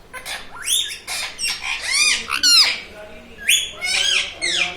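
Indian ringneck parrot making a quick run of short, sharp calls that sweep up and down in pitch.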